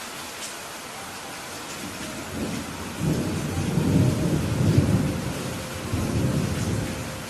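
Steady rain hiss with a rolling low rumble of thunder that builds about two seconds in, swells through the middle and eases off near the end.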